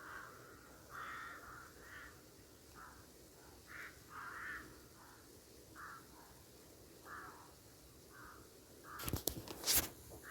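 A bird calling over and over in short calls, with a few sharp, loud knocks near the end.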